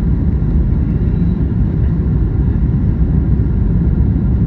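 Steady low rumble inside the passenger cabin of a Boeing 737 MAX 9 airliner: engine and air noise heard from a seat, even in level with no distinct events.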